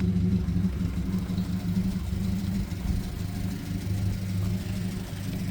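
A classic Ford Prefect's side-valve four-cylinder engine idling steadily with an even low hum.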